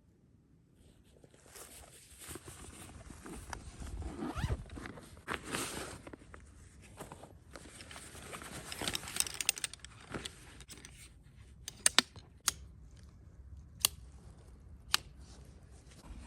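Handling noises: irregular rustling and scraping, with several sharp clicks or taps in the second half.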